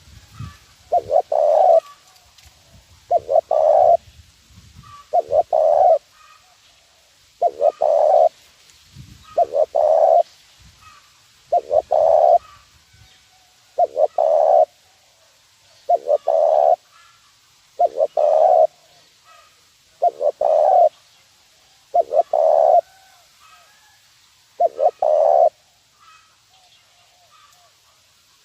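Spotted dove (terkukur) cooing the 'nguku' lure call, one short phrase of a few notes about every two seconds, repeated over and over.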